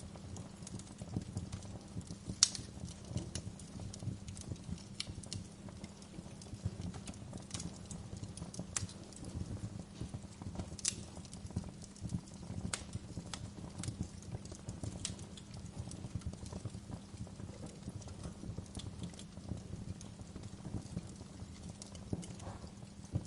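Wood fire in a fireplace crackling, with irregular sharp pops and snaps over a low steady rumble of the flames; the loudest pop comes about two and a half seconds in.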